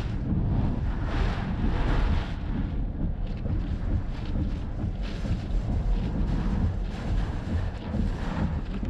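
Strong wind buffeting the microphone: a heavy, gusty rumble that surges about a second in, again at two seconds and around five seconds.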